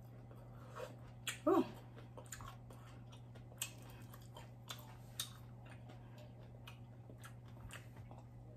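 Faint chewing of a fried birria egg roll: scattered soft mouth clicks and smacks, with one brief rising vocal hum about a second and a half in.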